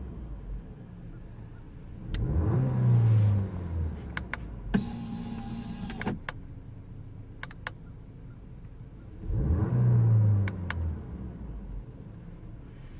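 Audi A5 2.0T's turbocharged four-cylinder engine revved twice from idle, each rev rising and falling back over about a second and a half, about two seconds in and again near the end. In between it idles, with several sharp clicks and a brief steady whine.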